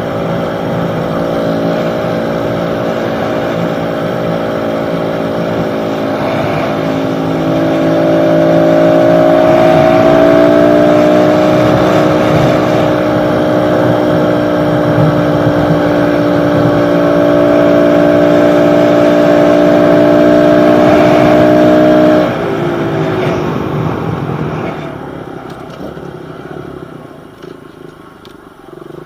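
Small pit bike engine running at steady cruising speed on the road. Its pitch rises a little about a third of the way in, holds, then drops as the throttle is closed, and the engine sound fades toward the end.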